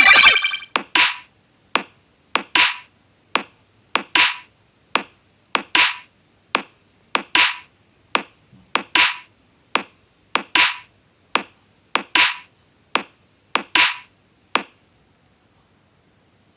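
A sharp clicking sound repeating evenly about every 0.8 seconds, nearly twenty times, each with a short ringing tail, then it stops.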